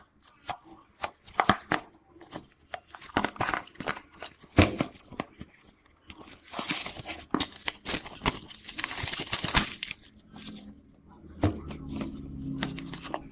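Hand work on a phone during repair: a run of small clicks and taps from tools and parts being handled, with a few seconds of scratchy scraping or peeling noise in the middle.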